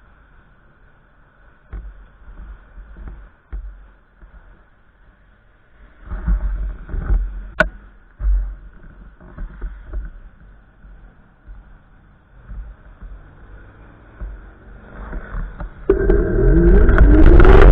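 Wind gusts buffeting the microphone in low rumbling bursts, with one sharp click. Near the end a motor vehicle comes in much louder, its engine pitch rising as it accelerates.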